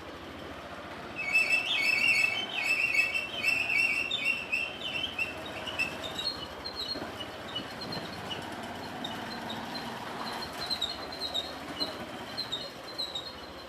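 Rapid, high-pitched chirping, many short notes in quick runs: loud from about a second in for several seconds, then sparser and fainter.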